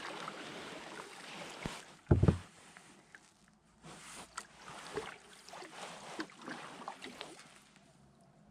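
Canoe being paddled: water swishing with the paddle strokes, and one loud thump about two seconds in.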